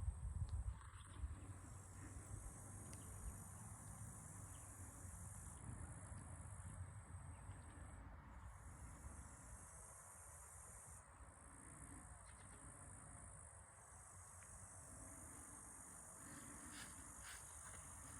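Near silence: faint room tone with a low rumble and a faint high-pitched hiss that cuts in and out every few seconds.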